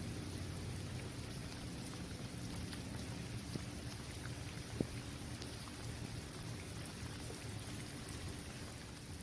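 Steady rain falling on an outdoor basketball court, with scattered taps of single drops. One tap about halfway through is sharper than the rest.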